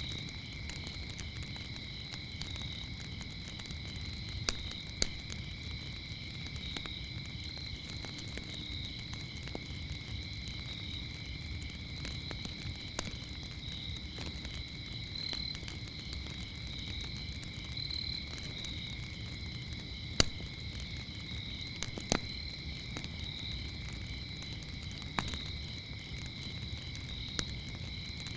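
Crickets chirping in a steady high trill over a crackling wood fire, with a low rumble and scattered sharp pops, the loudest about two-thirds of the way through.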